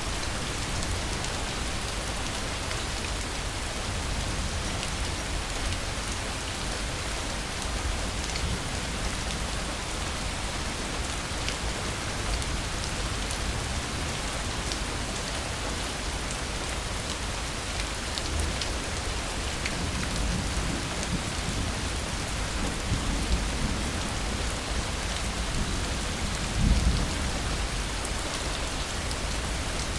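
Steady rain falling, with low rolls of distant thunder rumbling under it, the loudest a little before the end.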